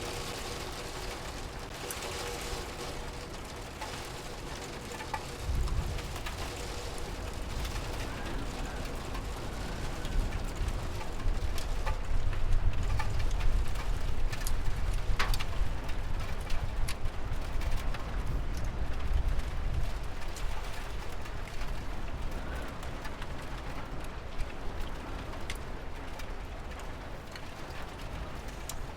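Steady rain with scattered sharp drips and ticks. A low rumble comes in about five seconds in, swells through the middle and fades out.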